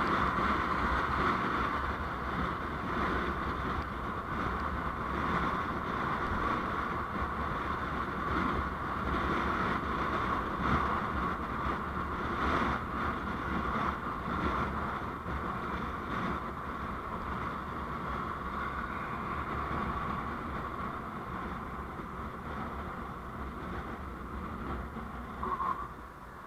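Steady wind and road noise of a vehicle on the move, easing a little near the end.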